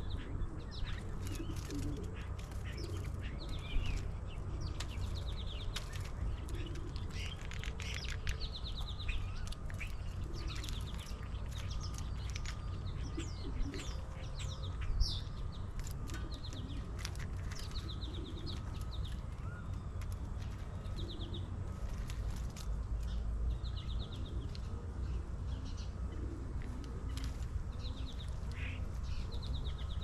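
Birds chirping and trilling, many short calls and rapid trills one after another, over a steady low rumble and scattered short clicks.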